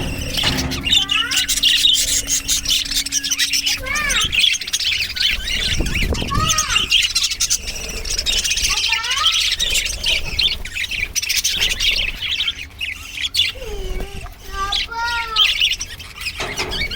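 Budgerigars chattering and chirping continuously, with several louder calls that bend up and down in pitch.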